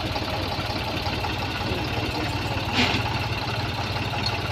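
Tractor diesel engine running steadily at a low idle, with one short louder noise about three seconds in.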